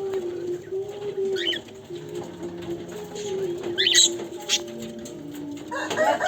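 Pigeons cooing in a low, drawn-out run of calls, with a few short high chirps from smaller birds over the top.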